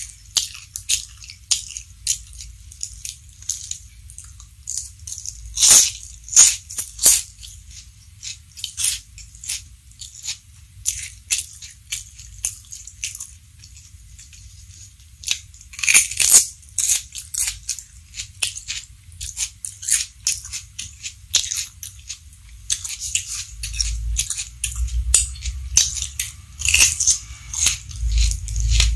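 Close-miked crunching of raw vegetables being bitten and chewed: irregular crisp crackles that come in clusters, loudest about 6 and 16 seconds in and thick again near the end, with a low rumble from handling under the last few seconds.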